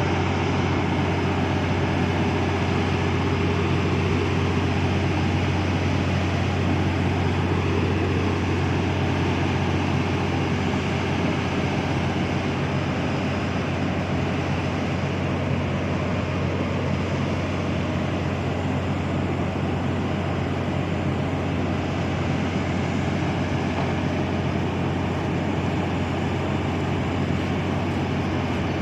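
A ship's diesel engine running steadily: a constant low hum with steady noise over it, unchanging throughout.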